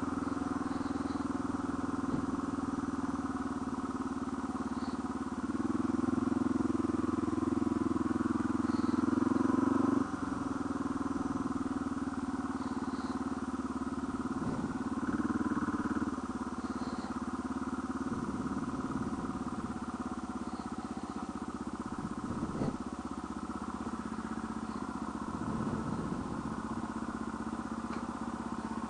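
Suzuki DR650's single-cylinder four-stroke engine pulling at low speed. It grows louder about five seconds in, drops off sharply when the throttle is shut about ten seconds in, swells briefly, then runs lower near idle as the bike rolls slowly, with one short knock about three-quarters of the way through.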